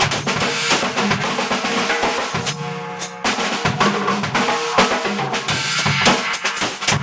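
Acoustic drum kit played in a busy groove: bass drum, snare and cymbal hits coming thick and fast, with a short let-up in the hits about halfway through.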